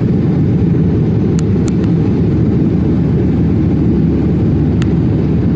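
Airliner in flight after takeoff: a steady, loud low rumble of engines and airflow, with a few faint short ticks.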